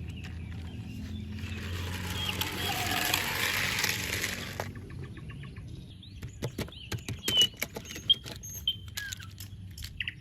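Packaging rustling for about three seconds, then scattered clicks and taps as toys and parts are handled, with a few short high chirps among them.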